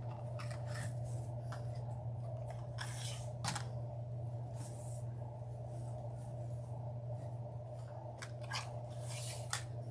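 Ribbon rustling and crinkling as it is handled and looped, with a few sharper crackles scattered through, over a steady low hum.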